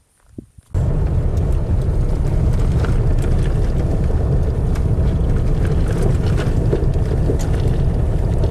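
A vehicle driving: a loud, steady rumble of engine, road and wind noise that starts abruptly less than a second in.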